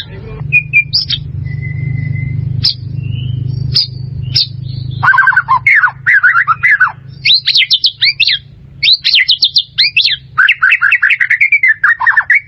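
White-rumped shama (murai batu) singing: a few scattered whistled notes and sharp clicks, then from about five seconds in, loud rapid phrases of fast repeated, falling notes.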